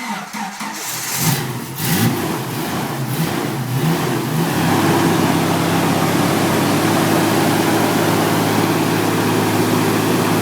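A Jeep Wrangler's newly installed 4.0-litre straight-six engine just after starting, running unevenly with some revving for the first few seconds, then settling into a steady idle about four seconds in.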